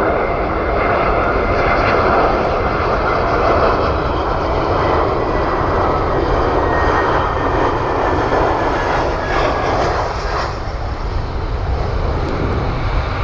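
Airliner engines running loud and close, a heavy steady noise with a thin high whine in the first few seconds. The upper part of the noise thins out about ten seconds in.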